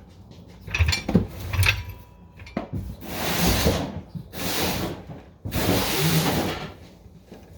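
Handling noises from work under a car: a few knocks about a second in, then three long rubbing sounds.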